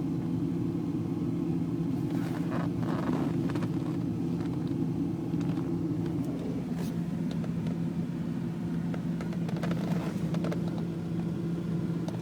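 Steady drone of a running vehicle engine, with brief swells of passing motorcycles about two to three seconds in, near seven seconds and around ten seconds.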